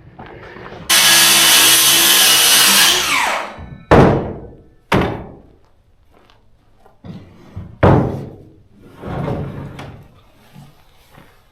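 A loud rushing noise of about two seconds, then three sharp thuds, each ringing out briefly.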